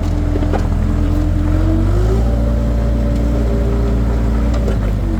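Skid steer engine running under load with a whine over it; the pitch rises about two seconds in, holds, then drops near the end. A few light clanks sound over it.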